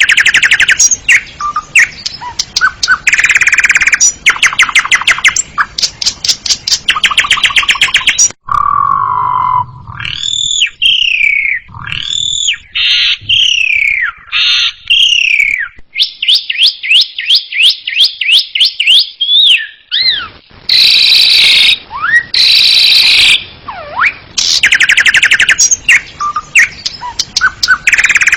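Asian pied starling (jalak suren) singing a long, varied song: fast rattling trills, harsh chattering bursts and clear whistled notes that slide up and down in pitch. About a third of the way in it switches to a run of slurred whistles, then a quick clicking rattle, before the trills and harsh bursts return.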